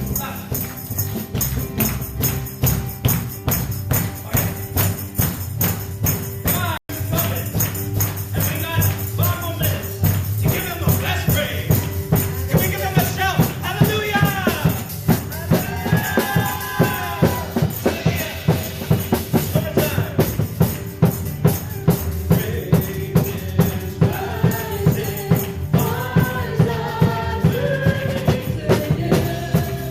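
Worship song with a steady beat of about two strokes a second. Singing voices come in about ten seconds in. The sound drops out briefly at about seven seconds.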